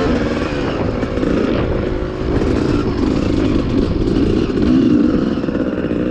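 1991 Yamaha WR250 two-stroke dirt bike engine heard close up from on board, revving up and easing off again and again, its pitch rising and falling.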